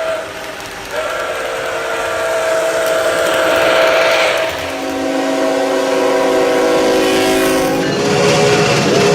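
Steam locomotive chime whistle from the sound system of an O scale Nickel Plate Road Berkshire model, blown in long held blasts that change chord about a second in, about four and a half seconds in and again near the end.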